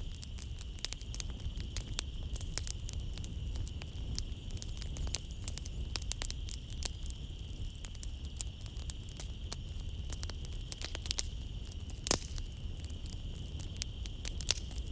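Wood fire crackling and popping in a fireplace, with irregular snaps over a low steady rumble of the flames, and one louder pop about twelve seconds in. Behind it, a continuous high trill of night insects.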